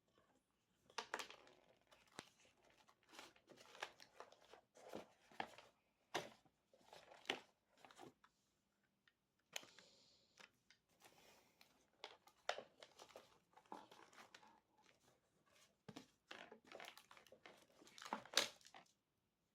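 Packaging of an aroma gift set being handled and unwrapped: irregular bursts of rustling with sharp little clicks, and a longer stretch of rustle about halfway through.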